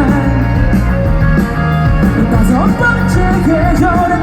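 Live rock band playing loudly through a PA, with electric guitars and drums. A note slides upward about two and a half seconds in.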